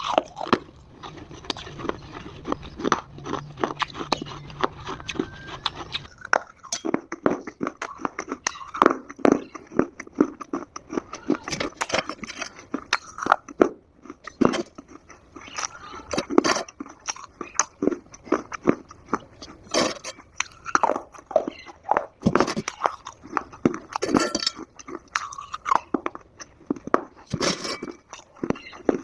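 Close-miked biting and chewing of hard Multani mitti (Fuller's earth clay), a quick, irregular run of dry, sharp crunches. A low hum runs underneath and stops about six seconds in.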